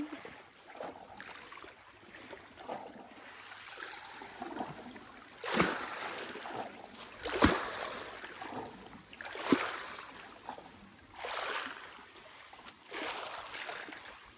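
Kayak paddle strokes in lake water: a swish and splash about every two seconds, a few of them starting with a sharp knock.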